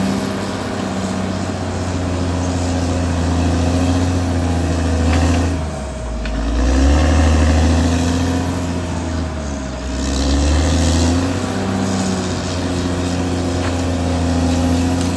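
Caterpillar D6R XL bulldozer's diesel engine running steadily under load. The engine sags briefly about six seconds in and again near ten seconds, then picks back up.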